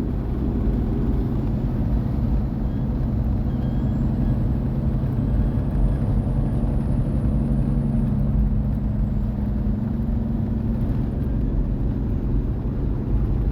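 Detroit Diesel Series 60 12.7-litre inline-six in a 1998 Peterbilt 379 running steadily, fitted with a new BorgWarner K31 turbocharger. A faint high whistle rises and falls in the middle.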